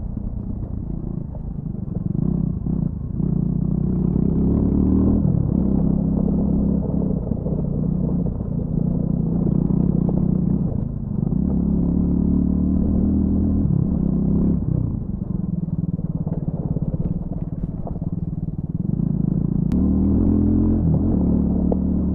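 Triumph Scrambler 400 X's single-cylinder engine through its stock exhaust, ridden off-road: the engine note rises under throttle and drops back several times as the rider rolls off and on again.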